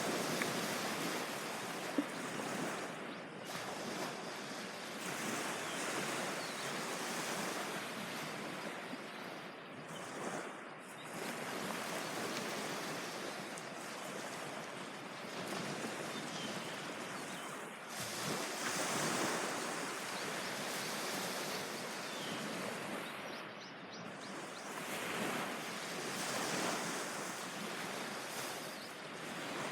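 Sea waves breaking and washing up a beach, the surf swelling and falling away every few seconds. There is a single brief click about two seconds in.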